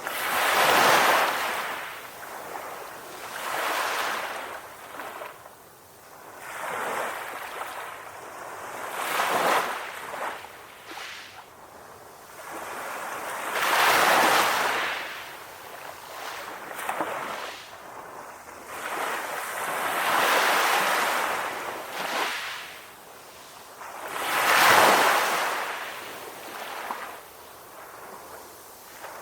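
Ocean waves washing in on a shore, a surge of surf hiss every three to four seconds that swells and falls away.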